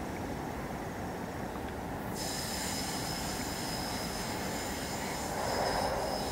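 SEPTA Silverliner IV electric train rounding a curve, a low steady rumble of the train on the track, with a high-pitched steady wheel squeal setting in about two seconds in as the wheels grind through the curve.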